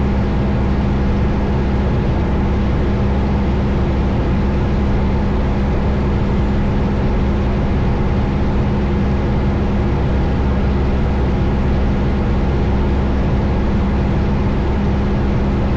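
1972 Cessna Skyhawk's piston engine and propeller droning steadily in flight, with an even, unchanging pitch.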